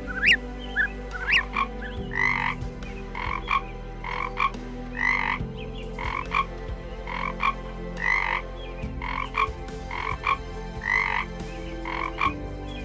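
A frog croaking over and over, short rough calls about once a second, after a few short high chirps in the first two seconds.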